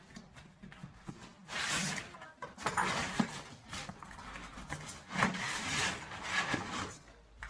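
Rustling and knocking of packaging and parts being handled, in irregular bursts of a second or less with a few sharp clicks.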